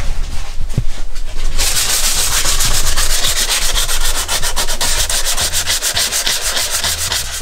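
Sanding of Bondo body filler on a car's engine bay, a rasping noise that starts about one and a half seconds in and goes on in quick, even strokes.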